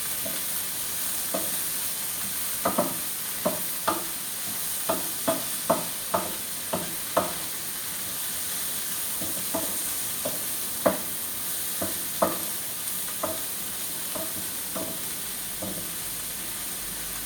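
Vegetables sautéing in a hot pan with a steady sizzle, while a spatula stirs them, knocking and scraping against the pan at irregular moments.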